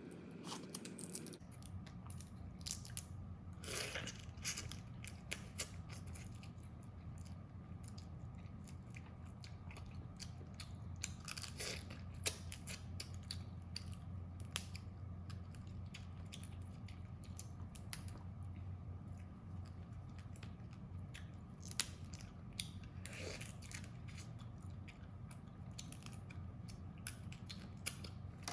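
Crab shells being bitten, cracked and chewed close to the microphone: many sharp clicks and crackles with a few louder crunches, over a faint steady low hum.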